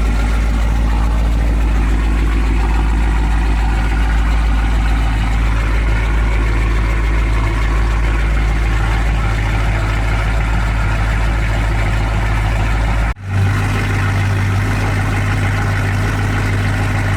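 Car engine idling with a steady low rumble. About thirteen seconds in, the sound cuts off for a moment and comes back with a different, deeper hum.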